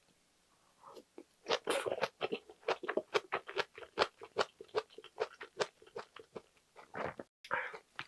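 Close-miked mukbang chewing of a mouthful of rice wrapped in braised aged kimchi: a quick run of wet, crunchy clicks and smacks, about five a second, with a few louder smacks near the end.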